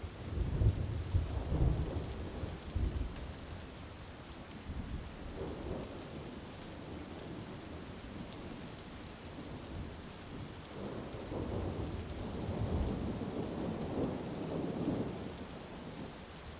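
Steady heavy rain with rolling thunder: a clap of thunder that starts sharply and rumbles for about three seconds, then a second, longer roll that swells about eleven seconds in and dies away near the end.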